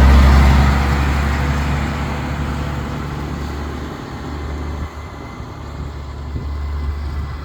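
A tractor's diesel engine running with a low drone that fades over the first few seconds as it moves away, leaving a quieter rumble.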